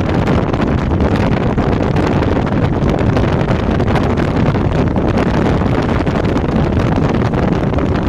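A moving lorry's engine and road noise under wind buffeting the microphone: a steady, loud rush.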